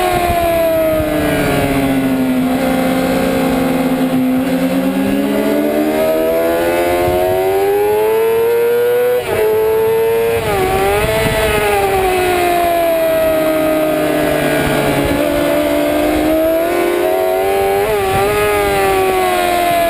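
Sport motorcycle engine at racing speed, heard from an onboard camera: the revs fall for a couple of seconds, then climb for several seconds, with sharp short breaks in pitch about halfway through and again near the end where gears change. A steady rush of wind runs under the engine.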